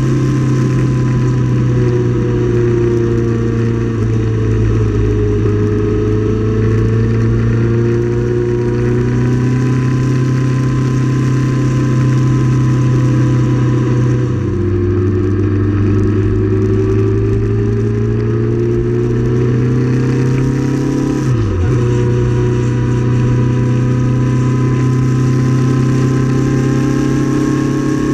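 Motorcycle engine cruising steadily in sixth gear, heard from the bike with steady wind and road noise. The engine note drops a little about halfway through, then dips briefly and picks back up about three quarters in.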